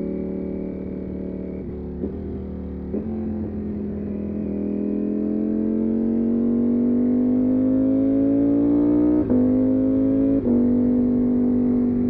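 Motorcycle engine running at a steady cruise, then accelerating with a rising pitch from about four seconds in. Near the end it drops in pitch twice, briefly, as upshifts.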